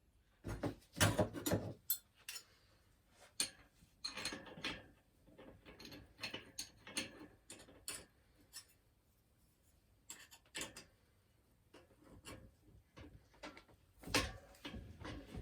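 Irregular metal clicks, knocks and rattles of hand tools working on a bicycle front wheel hub as it is taken apart. The hub's bearings are tight and dry and need re-greasing.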